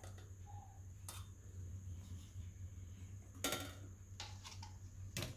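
A few light knocks and taps from kitchen utensils and mixer parts being handled and set down, three in all, over a faint steady hum.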